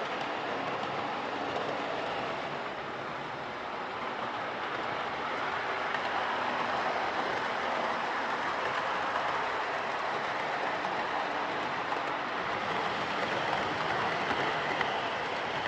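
Hornby OO gauge Class 43 HST model train running steadily round a layout track, a continuous even rolling noise from its motor and wheels. It is running okay, its motor rebuilt with a casing whose spindles are not worn.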